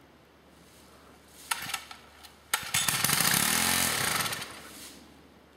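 Small gasoline engine being pull-started: a short sputter about a second and a half in, then it catches about a second later, runs up in pitch and winds back down, dying out within about two seconds. It doesn't want to stay running.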